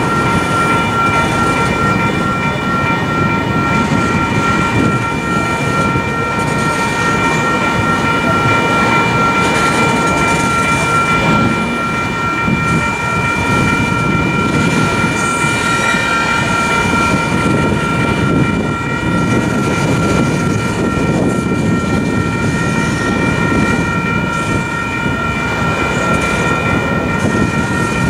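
Intermodal freight cars rolling past close by: a steady rumble and clatter of steel wheels on rail. Over it runs a continuous high ringing held at one pitch, the grade-crossing warning bell sounding while the train occupies the crossing.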